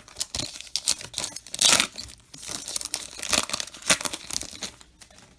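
A trading card pack's wrapper being torn open and crinkled, in a run of crackling rips that are loudest about a second and a half in and again around three and a half seconds in, then die away near the end.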